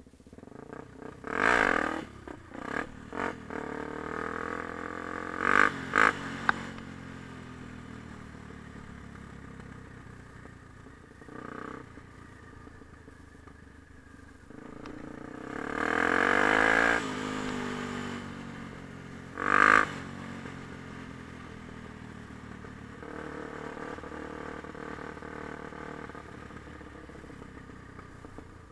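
Yamaha TT-R250 dirt bike's single-cylinder four-stroke engine running under way, the revs rising and falling with the throttle. There are several short louder surges, the longest about two-thirds of the way through, and steadier running in between.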